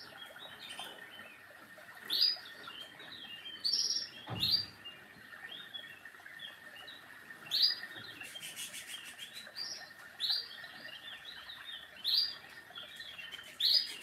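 Small birds chirping: a sharp, high chirp every second or two with softer twittering between. There is a dull knock about four seconds in, and a short rattle of clicks around eight to nine seconds in.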